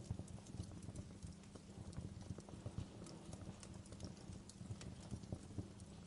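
Wood fire burning in a fireplace: irregular crackles and snaps over a low steady rumble of flames.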